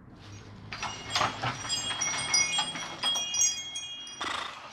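Wind chimes jingling: many small metal chimes struck in quick succession, their high tones ringing on, with a short burst of noise near the end.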